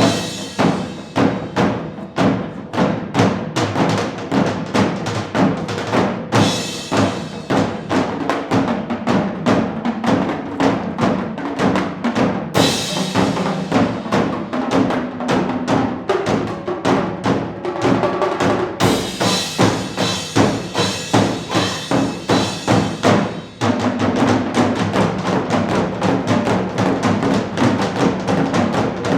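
Fusion percussion ensemble playing a fast, driving drum rhythm of dense, even strikes. Bright ringing comes and goes over the drums in several stretches, and the playing dips for a moment about three-quarters of the way through before coming back fuller.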